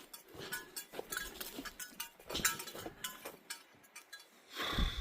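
A hiker's footsteps on a forest trail, with small metallic clinks and jingles from carried gear at irregular intervals, and a louder burst of noise near the end.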